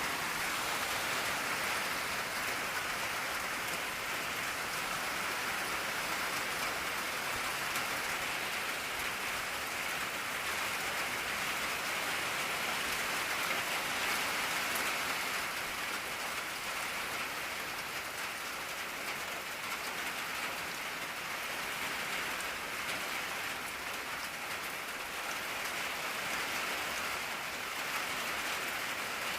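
Steady rain drumming on an old tin roof, a dense, even patter of drops.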